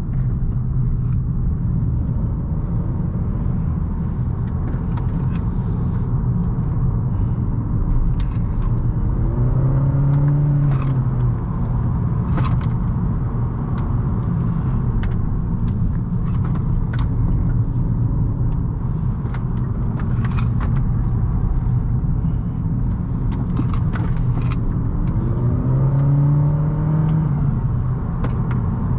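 Cabin sound of a 2018 Honda Accord 1.5T Sport under way on a twisty road: steady engine and road rumble from its turbocharged 1.5-litre four-cylinder. The engine note rises twice as the car accelerates, about nine seconds in and again near the end, with scattered light ticks throughout.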